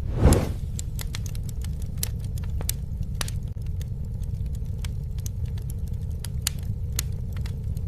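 Campfire burning with a steady low rumble of flame and irregular sharp crackles and pops from the wood, with a brief louder rush of flame just after the start.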